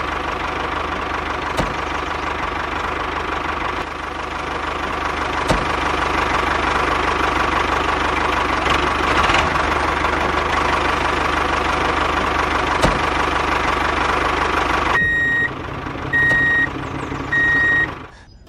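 Mini tractor's small engine running steadily. Near the end it gives way to three short, high beeps about a second apart.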